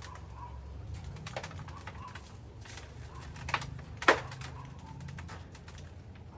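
A few sharp knocks of sweet potatoes being set down on a table, the loudest about four seconds in, over a low steady hum.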